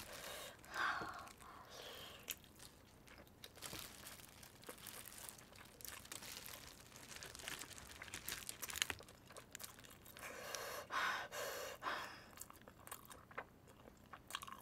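Close-up chewing and biting on a roast chicken leg, with short wet crunches and irregular clicks, and some crinkling of the foil it sits on.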